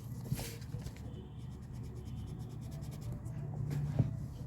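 Felt-tip sketch pen scratching back and forth on paper while colouring in, over a low steady hum, with a sharp tap about four seconds in.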